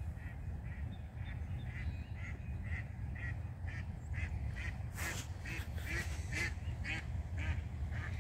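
Birds calling in runs of short repeated honk-like notes, about three a second, growing louder about five seconds in, over a steady low rumble.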